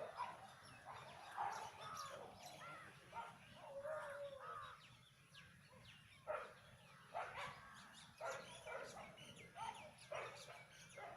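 Faint animal calls: many short, pitched cries overlapping, a few each second.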